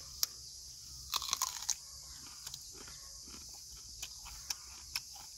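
A person biting and chewing a raw green banana: scattered soft crunches and wet mouth clicks, with a cluster of them about a second in.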